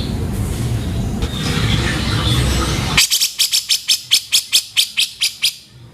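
Grey-cheeked bulbul (cucak jenggot) calling. Over the first half, background rumble and faint calls; then, after an abrupt change about halfway through, a rapid string of harsh notes at about six a second that fades near the end.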